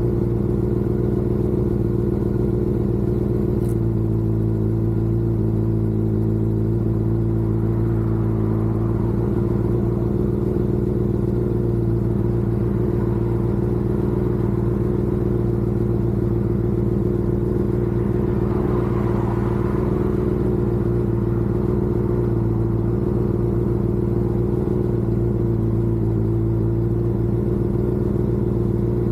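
Motor vehicle engine holding a steady highway cruise: a constant low drone with no gear changes or revving.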